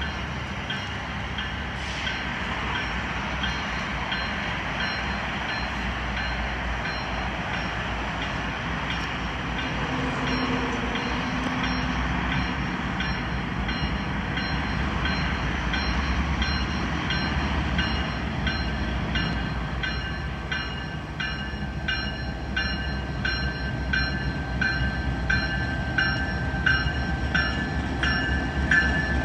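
Norfolk Southern diesel locomotive at the head of a freight train approaching slowly, its engine giving a steady low rumble that grows louder. From about halfway on, wheels click rhythmically over rail joints and switches, about one or two clicks a second, loudest near the end.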